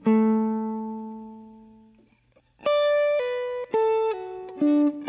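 Guitar played slowly, one note at a time: a single note is picked and rings out, fading over about two seconds, then after a short pause a slow run of single notes follows, some sounding without a fresh pick attack, as pull-offs.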